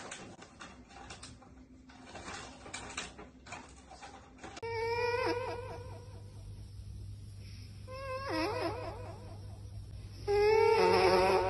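Light scattered knocks and clatter, then a domestic cat meowing in three drawn-out, wavering calls, the last one the loudest near the end.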